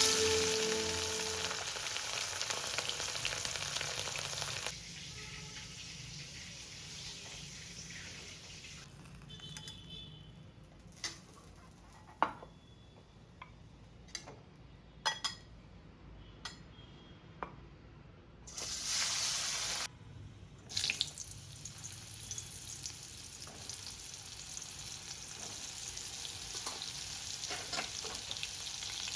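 Food frying in hot oil in a pan: loud sizzling that drops off after about five seconds, then softer sizzling with a few sharp clicks of a utensil against the pan. A brief loud burst of sizzling comes about two-thirds through, and the sizzling builds again near the end.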